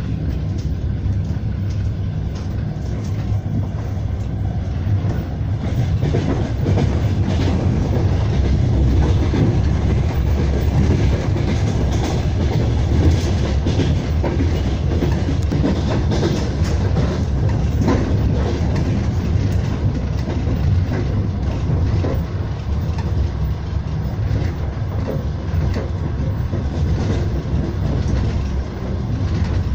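Passenger train carriage rolling along the track, heard from inside: a steady low rumble with the clickety-clack of the wheels over rail joints.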